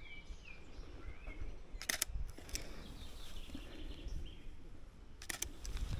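Canon 77D DSLR shutter firing: quick clicks about two seconds in and again near the end, with small birds chirping in the background.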